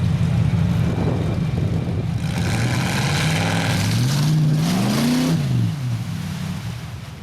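Mud truck engine revving under load, its pitch climbing and then dropping back about five seconds in, with a rush of noise in the middle.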